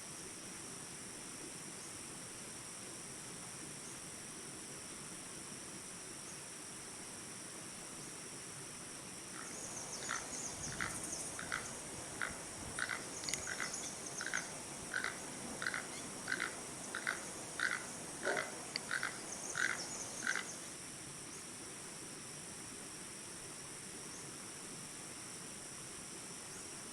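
A toucan giving a run of about seventeen rhythmic calls, roughly one and a half a second, for about eleven seconds starting a third of the way in, over a steady high-pitched insect hum.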